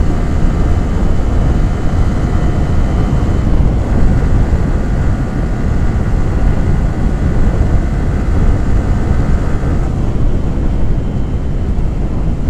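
Yamaha R15 V3's 155 cc single-cylinder engine running steadily under way, mixed with heavy wind rush on the microphone; the engine's pitched note eases off near the end.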